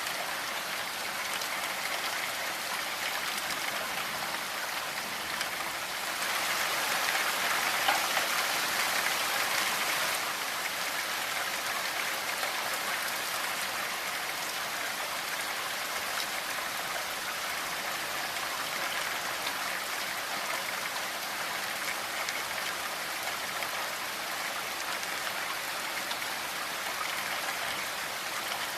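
Steady rain falling, a continuous hiss of drops, swelling a little for a few seconds about six seconds in.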